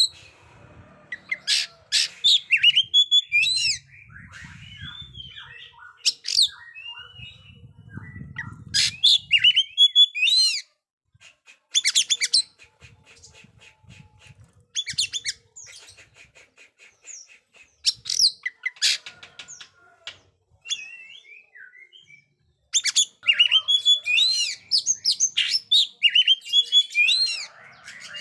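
Oriental magpie-robin singing loud, quickly varied bursts of whistles, chirps and harsh notes, broken by short pauses.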